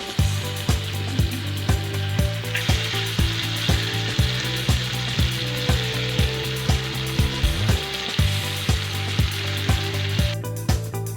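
Food frying in a pan, a sizzling hiss that grows louder about two and a half seconds in and cuts off abruptly near the end, over background music with a steady beat.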